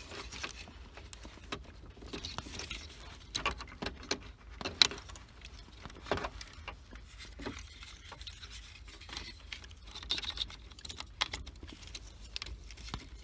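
Scattered light clicks and rattles, with the metallic jingle of a key ring hanging from the ignition lock cylinder, as plastic wiring harness connectors under the steering column are handled and plugged back in.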